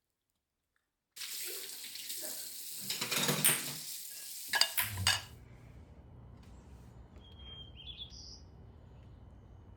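Kitchen tap running into a sink for about four seconds with dishes and cutlery clinking, then turned off, leaving a faint low hum.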